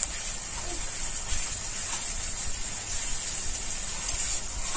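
Onion masala with cumin paste frying in oil in a kadai, a steady sizzle, with a spatula stirring through it.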